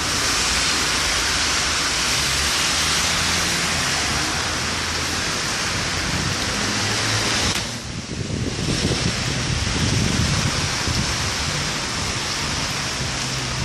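Heavy rain pouring down hard in a thunderstorm downpour, a loud, steady hiss that dips briefly about eight seconds in.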